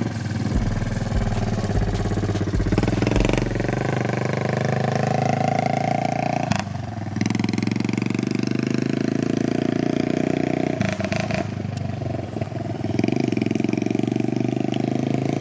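Four-wheeler (ATV) engine running under throttle as it is ridden, its pitch climbing and then dropping back, about six seconds in and again around eleven seconds, before climbing once more.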